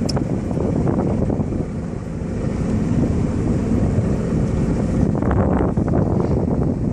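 Jet ski running on the water, with wind buffeting the microphone; the rush swells with gusts about five seconds in.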